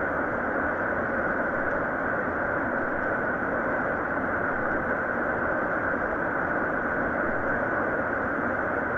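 Waterfall falling into a pool, a steady, even rush of water.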